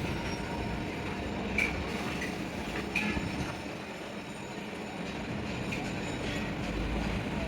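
Steady low mechanical rumble of workshop noise, with a few light metallic clinks, about one and a half, three and nearly six seconds in.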